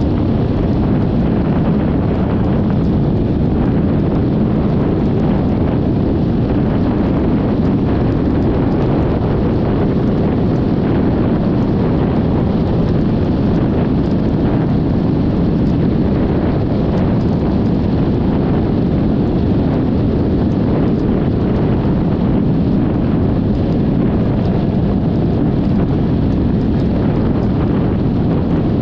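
Steady wind noise on the camera's microphone from riding a Yamaha XMAX 300 scooter at speed, a loud, even, low rush with no change.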